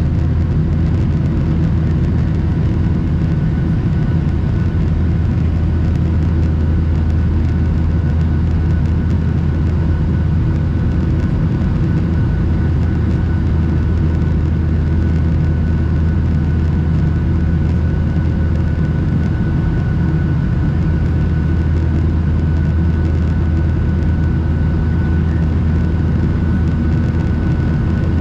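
Steady cabin noise of a Boeing 737-800 in its climb: a loud, even low rumble from the airflow and its CFM56-7B engines, with a faint steady whine above it.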